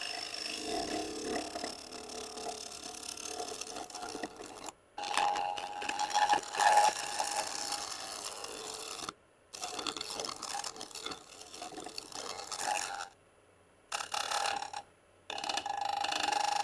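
Negative rake scraper scraping across a spinning magnolia bowl on a wood lathe in light smoothing passes, a steady hiss with a ringing whine in it, broken by several sudden short silences.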